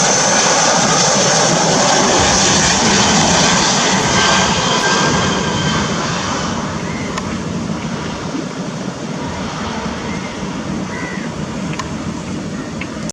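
Jet airliner flying low overhead on approach, a loud engine roar that starts fading about five seconds in and keeps dying away.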